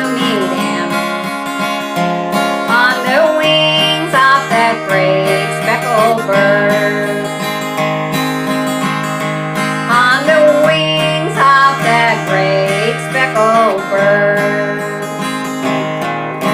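Acoustic guitar playing a country-gospel tune without singing: a melody that bends and slides in pitch over steady bass notes, dying away at the end.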